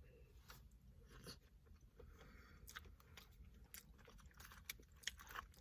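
Faint chewing: a person crunching and biting fried fast food, with scattered soft crunches and mouth clicks.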